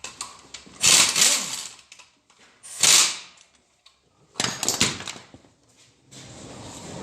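Workshop tools working on an engine: three short, loud bursts of tool noise, then a steadier mechanical noise starting about six seconds in.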